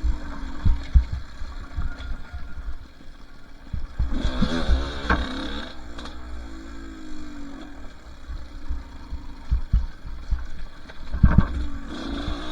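Two-stroke dirt bike engine running under way on a trail, its pitch rising and falling with the throttle, with louder revving about four seconds in and again near the end. Short low thumps come through throughout.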